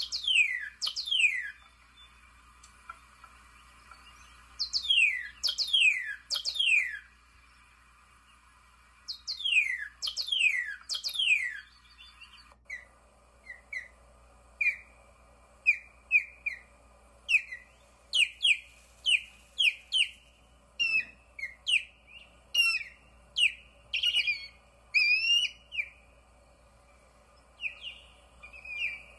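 A songbird singing: groups of three or four quick downward-slurred whistles. From about halfway, a long, varied series of short chirping notes follows, several a second.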